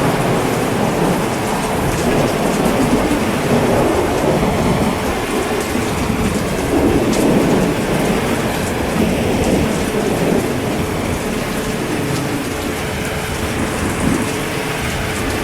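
Heavy rain falling steadily, with low thunder rumbling that swells and fades several times, most strongly about seven seconds in.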